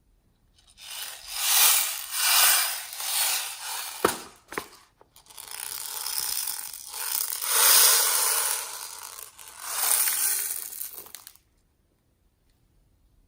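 Slime being worked by hand: a run of noisy squishes that swell and fade about once a second, with a sharp click about four seconds in, stopping about a second and a half before the end.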